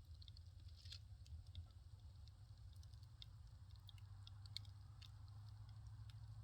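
Firewood fire crackling faintly, with scattered small irregular pops over a steady low hum.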